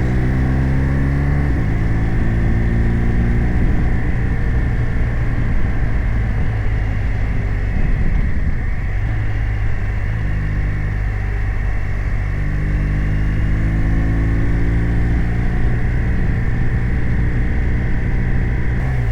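BMW R 1250 RT's 1254 cc boxer twin running on the move. The note shifts about a second and a half in and turns rougher and noisier through the middle, then settles into a steady note from about ten seconds in.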